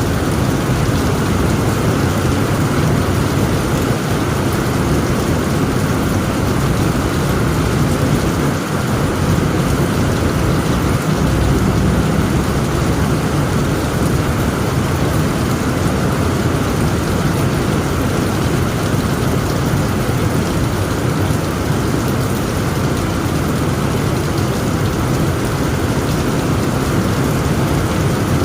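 Heavy rain pounding steadily on a tent roof, with a low thunder rumble underneath that swells slightly about eleven seconds in.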